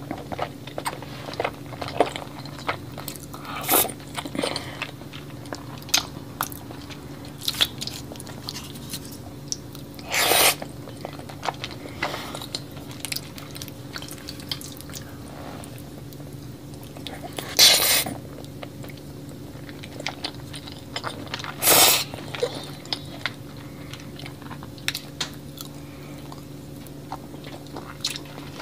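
Close-miked chewing and wet mouth sounds of someone eating creamy Alfredo spaghetti: many small smacking clicks, with three louder noisy bursts spread through.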